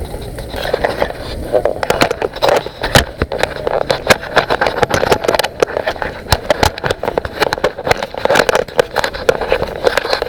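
A vehicle jolting along a rough trail, with constant rattling and many sharp knocks over a steady rumble.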